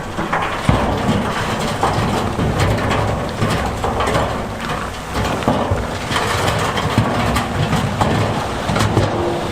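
Large stones tumbling and grinding against one another, with many clattering knocks throughout, over a heavy diesel engine running.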